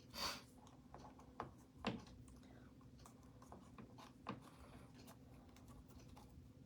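Near silence broken by a few faint, short knocks and scrapes of hands and tools handling the stencil and chalkboard, the loudest just after the start.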